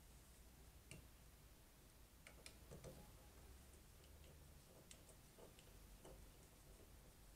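Near silence: room tone with a few faint, scattered clicks and taps, a small cluster of them between two and three seconds in.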